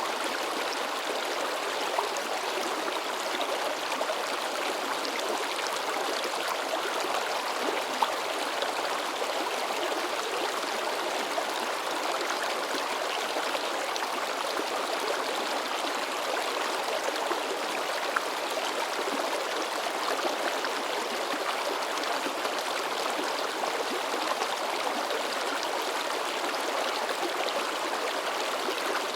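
A shallow river babbling and splashing in a steady, even rush, with a few brief louder splashes standing out now and then.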